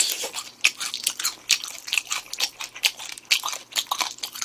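A person chewing spicy chicken on the bone, biting through the bones: an irregular run of quick, sharp crunches and clicks.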